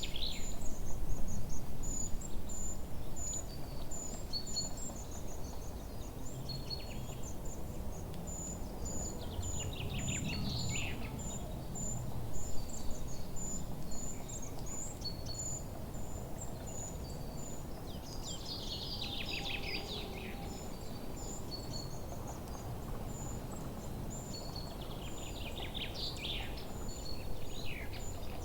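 Forest birdsong ambience over a steady low background rumble. A high, thin chirp repeats one to two times a second throughout, and short bursts of trilling song break in four times, each falling in pitch.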